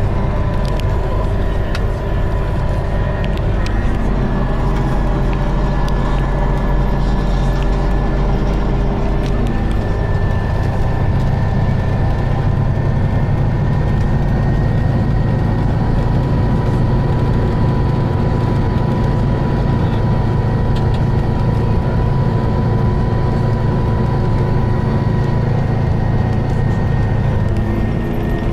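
A gas-powered Scania Citywide city bus running steadily: a continuous low engine note under a steady high whine. The low note grows a little stronger about a third of the way in.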